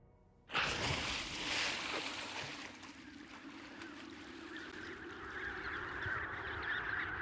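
A dense chorus of penguins calling cuts in suddenly about half a second in, over a steady noisy rush.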